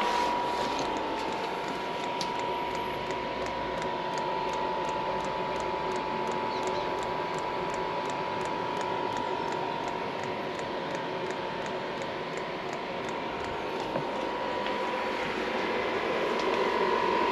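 Chinese diesel parking heater running its start-up cycle: the fan motor blows with a steady whine while the fuel dosing pump ticks about three times a second, the ticks fading out about ten seconds in. The heater is blowing cold air and failing to light, a start that ends in an E8 error, which means diesel is not reaching the combustion chamber.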